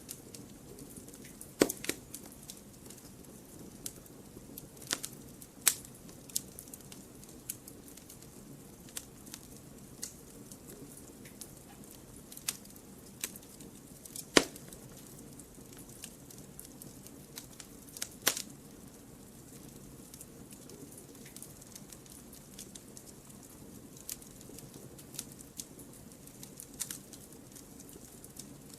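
Wood fire burning in a fireplace, a steady low hiss with irregular sharp crackles and pops, a few louder snaps scattered through.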